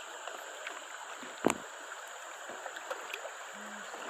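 Faint, steady flowing river water around a drifting kayak, with a single sharp knock about a second and a half in.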